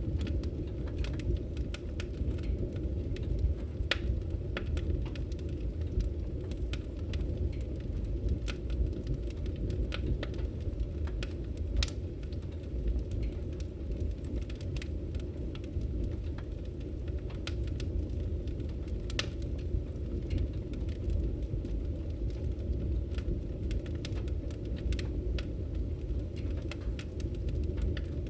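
Wood fire burning in a fireplace: a steady low rumble of the flames with irregular crackles and sharper pops from the burning logs.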